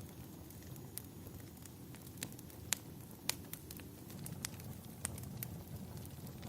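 Wood fire crackling, with sharp irregular pops over a low steady rumble of flames; the two loudest pops come near the middle.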